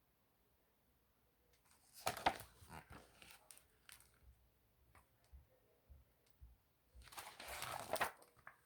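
Faint paper rustling with small clicks, as of a picture book's page being handled and turned. A burst of rustle comes about two seconds in and a longer, louder rustle near the end.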